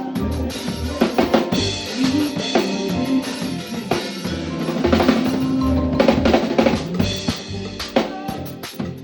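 Live band playing an instrumental passage, the drum kit to the fore with kick and snare hits over pulsing low bass and held chords.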